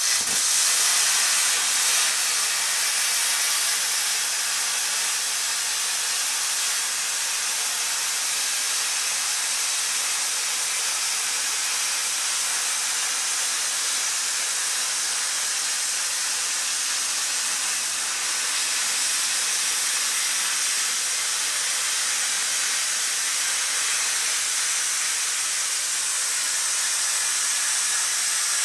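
Plasma cutter torch cutting: a loud, steady hiss of the arc and air jet that starts abruptly and holds even throughout.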